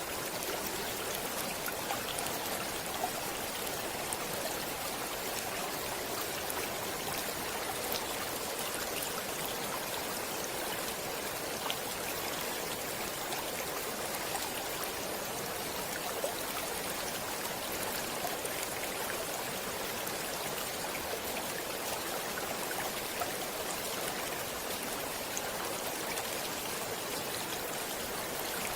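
Stream water running steadily: an even rushing hiss with small scattered splashes and drips.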